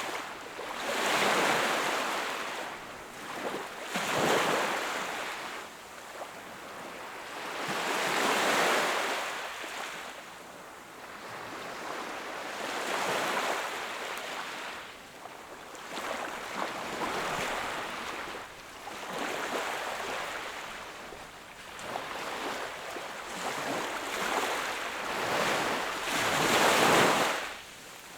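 Sea waves washing onto the shore, each surge swelling and falling away every four or five seconds, with the loudest one near the end.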